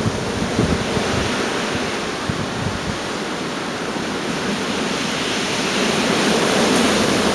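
Gale-force storm wind blowing as continuous noise, with gusts buffeting the microphone in uneven low thumps, growing slightly stronger toward the end.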